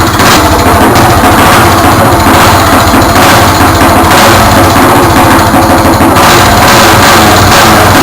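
Briggs & Stratton single-cylinder flathead kart engine running loud and close, with a fast even string of firing pulses. The owner thinks the ignition timing is off.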